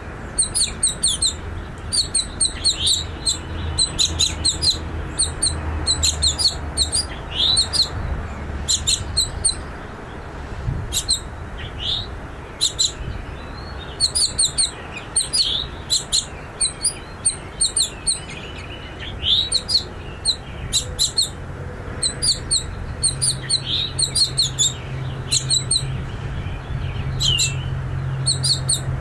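Purple finch nestlings begging for food: clusters of rapid, short, high-pitched chirps with brief pauses between bursts, over a steady low hum.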